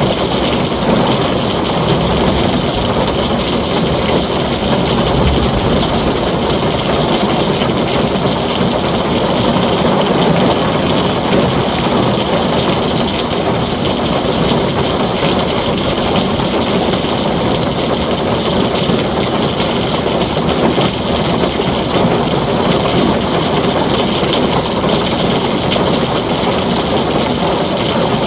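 Heavy rain pouring steadily on a tin roof, a dense unbroken hiss and patter with a low rumble underneath.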